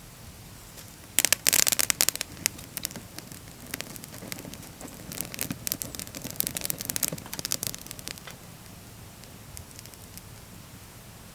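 Dry wood in a campfire crackling and snapping: a loud dense spell of sharp crackles about a second in, then a longer, busier spell from about four to eight seconds.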